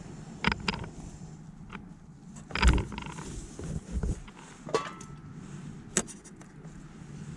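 A handful of short knocks and clicks at irregular intervals, the loudest about two and a half seconds in, over a low steady hum.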